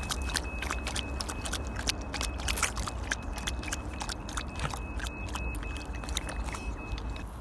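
Husky puppy lapping water: a quick, irregular run of wet clicks, over a steady low rumble. A faint high-pitched pulsing tone repeats in the background until shortly before the end.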